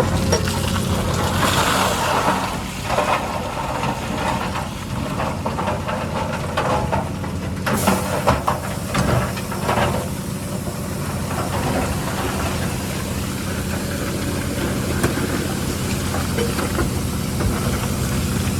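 Diesel engine of heavy earthmoving machinery running steadily, with a cluster of clanks and knocks about eight to ten seconds in.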